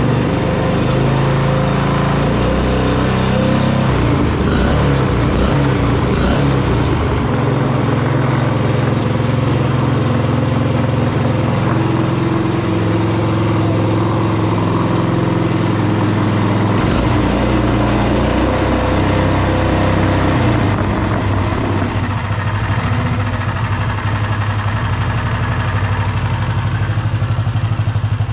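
6.5 hp single-cylinder small engine with an exhaust stack running on a bench stand, its speed shifting several times before it settles lower and steadier about 22 seconds in. A few sharp clicks a few seconds in.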